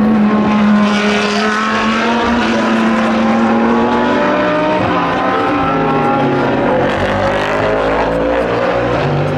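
Several endurance race cars' engines running hard as they pass. One deep engine note sags slowly through the first few seconds, then several overlapping engine notes climb in pitch as the cars accelerate.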